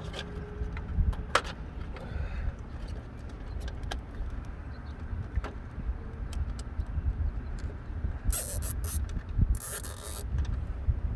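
Wind rumbling on the microphone, with scattered small handling clicks and two short high rasps near the end.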